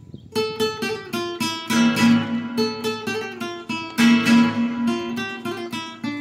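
Flamenco guitar playing a quick passage of plucked notes and strummed chords, starting after a brief pause.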